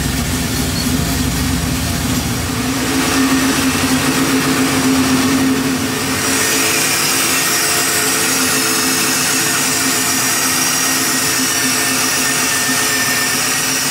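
Small-block Chevy 406 V8 idling steadily, still cold and running smoothly on its raised cold-start idle. It is heard from inside the cabin at first, and from about six seconds in from the open engine bay, where it sounds brighter with less low hum.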